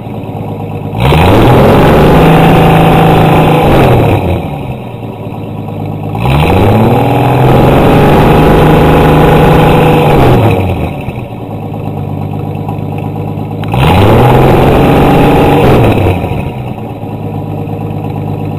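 1966 Ford Falcon's 200 cubic-inch inline six, breathing through a stock manifold, a Cherry Bomb Turbo II muffler and a Mr. Gasket exhaust cutout to dual tips, revved three times from idle. Each rev rises, holds for a few seconds and falls back to a steady idle.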